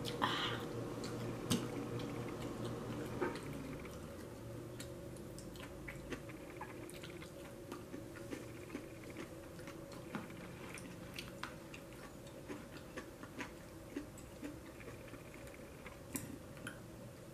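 A person chewing food, with soft, irregular mouth clicks about one or two a second, over a steady low hum.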